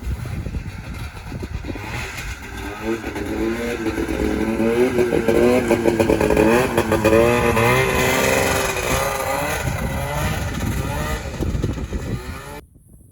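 Vintage two-stroke snowmobile engine running under throttle, its note getting louder and its pitch repeatedly rising and falling; the sound cuts off abruptly near the end.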